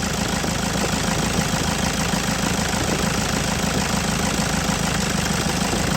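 Toyota Innova engine idling steadily during a cylinder-by-cylinder injector test, with cylinder 3 being checked for a change in the engine's running. The engine has a malfunctioning injector that works only some of the time, the cause of its poor pickup.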